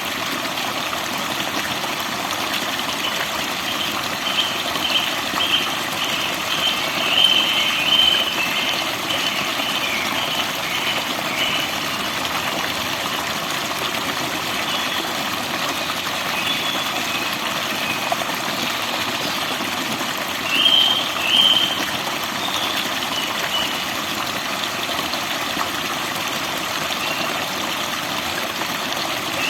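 Forest birds singing short, high chirping phrases in two spells, the second near two-thirds of the way through, over a steady rush of flowing water.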